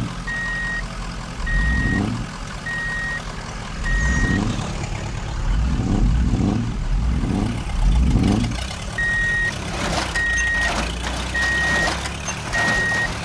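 Reversing beeper of an RC toy construction truck sounding a steady high beep about once a second, pausing for a few seconds midway, over a low engine rumble that swells and fades several times. Some light clattering comes near the end.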